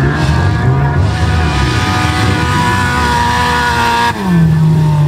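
Wreck-race car engines running hard at steady high revs. About four seconds in the sound cuts to a lower engine note that slowly falls.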